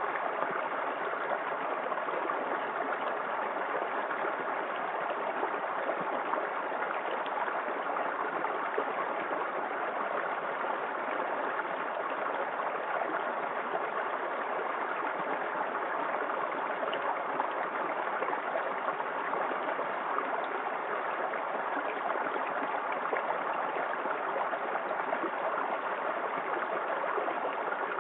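Small waterfall in a forest creek, water splashing and rushing steadily.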